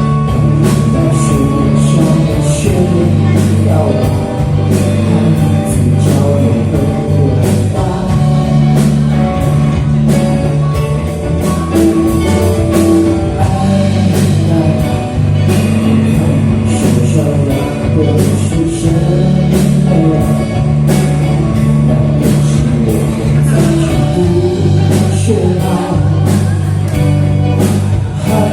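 Rock band playing live: a drum kit keeping a steady beat under sustained bass and guitar, with a voice singing.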